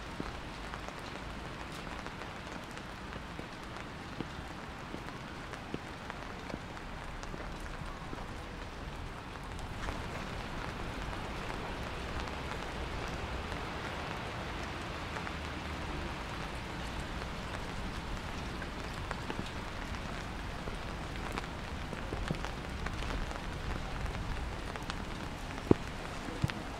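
Steady rain falling on pavement and other hard surfaces, a little heavier from about ten seconds in, with one sharp knock near the end.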